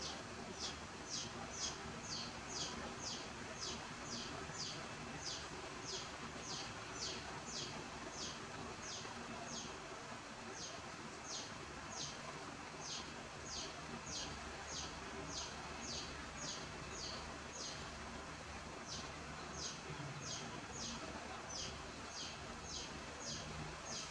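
High chirps, each falling in pitch, repeated about two times a second like a small bird calling over and over, over faint background noise.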